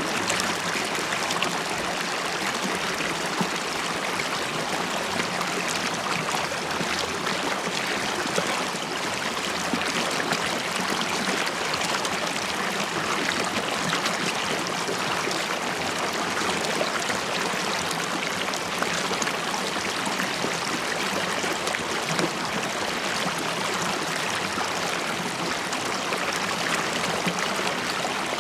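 River water streaming and bubbling over stones in a steady, unbroken rush, with fine splashes and gurgles.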